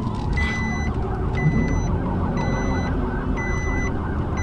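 An electronic warning beep repeating about once a second, each beep about half a second long, over the steady rumble of vehicle engines.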